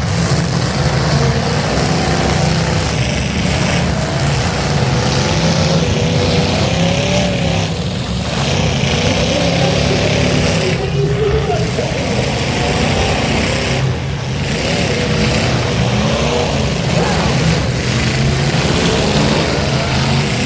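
Several demolition derby cars' engines running and revving at once, their pitches rising and falling over a heavy low rumble.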